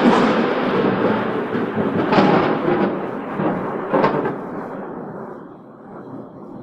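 Thunder rolling after a lightning strike, with sharper cracks about two and four seconds in, then slowly dying away.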